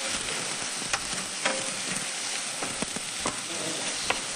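Chopped onions, garlic and bell peppers sizzling in olive oil in a frying pan, with a steady hiss and a few sharp clicks of a utensil stirring against the pan.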